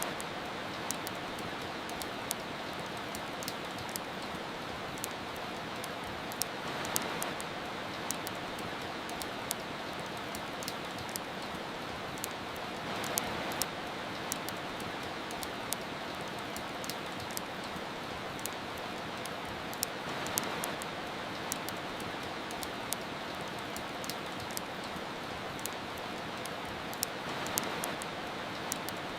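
Steady rain hiss mixed with a wood fire crackling: many sharp little pops scattered over the even hiss, which swells gently about every seven seconds.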